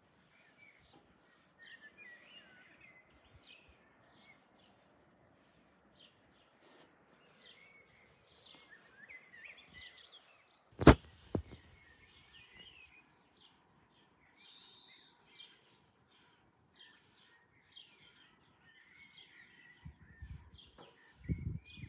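Songbirds chirping and calling in short, repeated notes over a faint outdoor background. A single sharp click about eleven seconds in is the loudest sound, and a few short low thumps come near the end.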